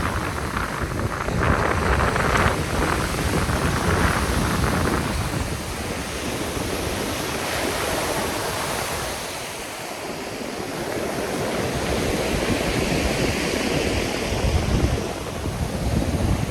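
Black Sea surf washing in and out on the shore, with wind buffeting the microphone. The wash swells and ebbs, dropping quieter about ten seconds in before building again.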